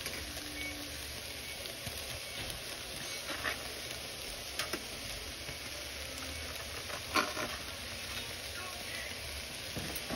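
Shrimp, chicken and mixed vegetables sizzling steadily in a skillet, with a few sharp clicks, the loudest about seven seconds in.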